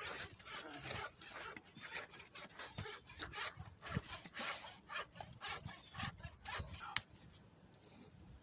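Snow crunching and scraping in a rapid, irregular run of short rough strokes, which stop about seven seconds in.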